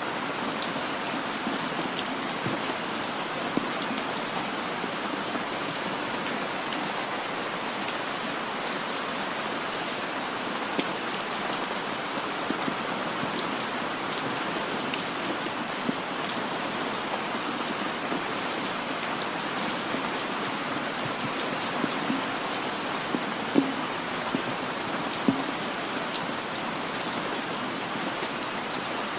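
Heavy rain falling steadily, a dense even hiss full of small close drop ticks, with an occasional louder single drop tapping now and then.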